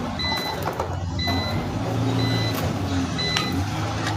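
A steady low engine hum with a short, high electronic beep repeating about once a second, typical of a vehicle's reversing alarm, and a few light metal clicks.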